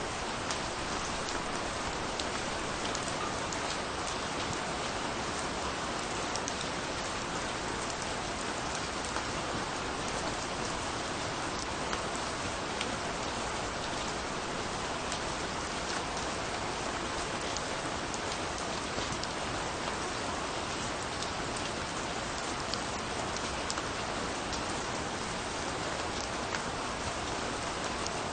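Steady rainfall, an even hiss dotted throughout with the sharp ticks of single drops landing.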